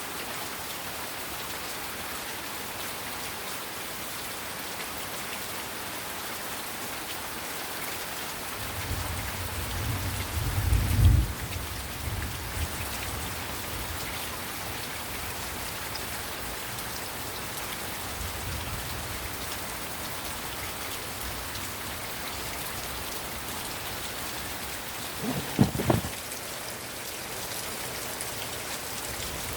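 Heavy rain falling steadily. A low rumble of thunder swells and fades about a third of the way in, and two short, sharp thumps sound close together near the end.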